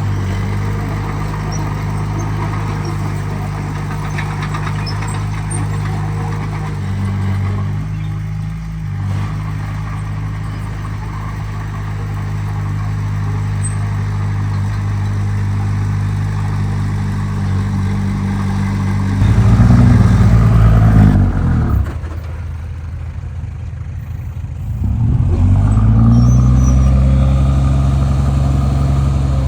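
Heavy earthmoving machine's diesel engine running steadily, then revving up loudly about two-thirds of the way through. It drops back for a few seconds, then revs up again near the end.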